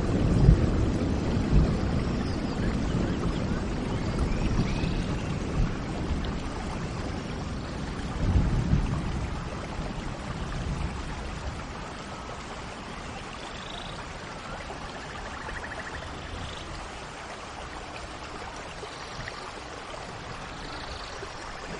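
Steady rain with low rolling thunder, strongest at the start and again about eight seconds in, then dying away. A few faint bird chirps sound high above the rain.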